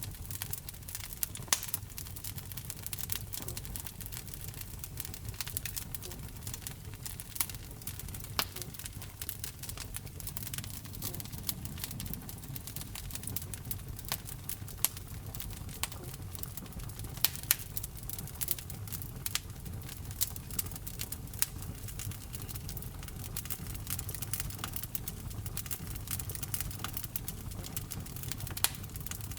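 Wood fire burning in a fireplace: constant irregular crackling, with several louder sharp pops and snaps, over a steady low rumble of the flames.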